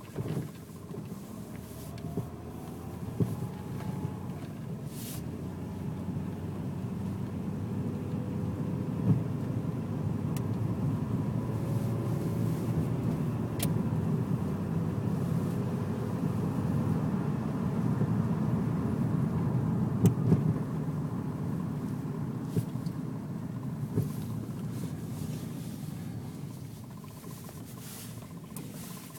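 Cabin noise of a moving car: a steady low rumble of tyres and engine that builds through the middle and eases off near the end. A few single sharp knocks come through it, the knocking noise the car is recorded for.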